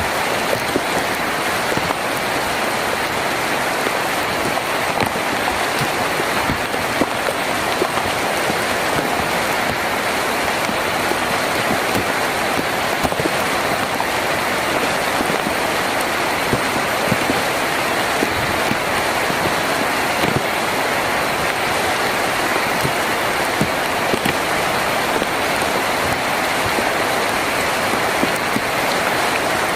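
Rain falling on a tin roof: a dense, steady hiss with many single drops ticking through it.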